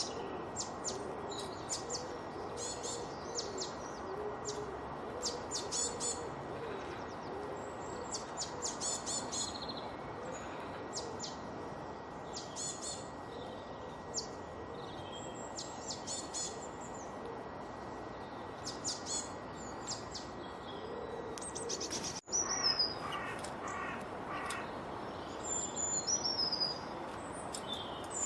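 Several songbirds singing, with rapid high chirps and trills over a steady background hiss. About 22 seconds in the sound cuts abruptly to a different recording, where high whistled notes slide downward.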